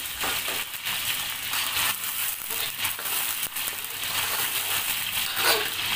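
Blended onion-and-garlic spice paste with whole spices sizzling in oil in a stainless steel wok, with a metal spatula scraping and clicking against the pan as it is stirred. The paste has fried until the oil separates from it.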